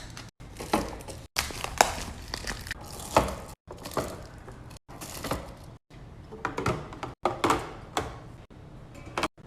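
Restocking a fridge with drinks: repeated thunks and knocks as items are set down, mixed with crinkling of plastic packaging, in short snippets that cut off abruptly every second or so.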